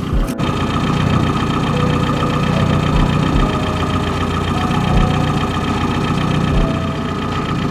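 Rover Mini's A-series four-cylinder engine idling steadily.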